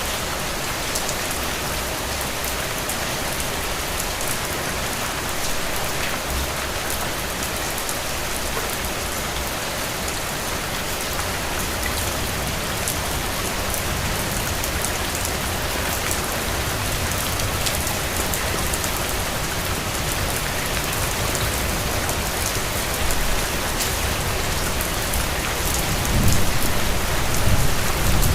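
Steady rain falling, a dense hiss with individual drops tapping. A low rumble swells near the end.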